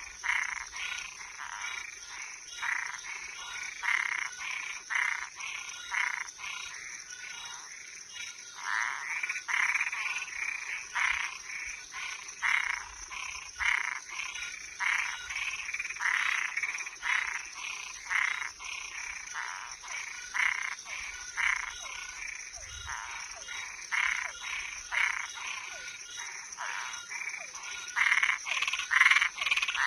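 Frogs and tree frogs calling at night: a steady run of short calls, one or two a second, over a constant high-pitched background hum.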